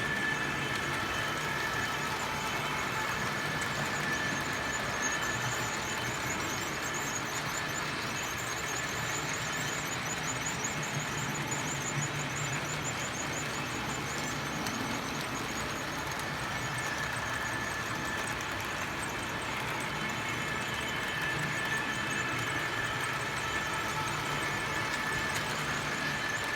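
Model trains running around a layout: a steady whir of small electric motors and wheels on track, with a faint steady high whine.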